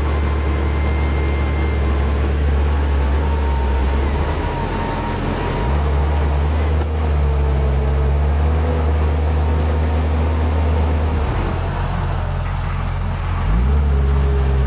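T-150K tractor's diesel engine running under varying load, its low drone shifting in pitch several times, with a quick rise and fall in engine speed near the end.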